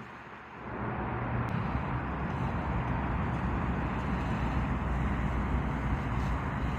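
Ford F-250 Super Duty pickup's 5.4-litre V8 running, growing louder about a second in and then holding steady.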